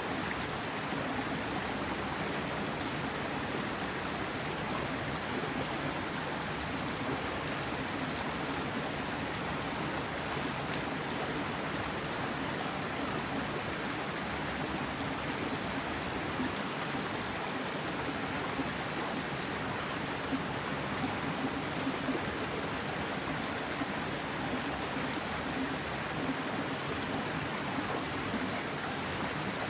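A stream's water flowing steadily, with a single brief click about eleven seconds in.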